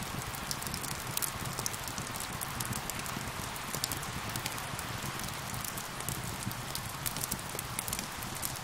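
Steady rain with a wood fire crackling over it: an even wash of rain and many small, irregular pops and ticks.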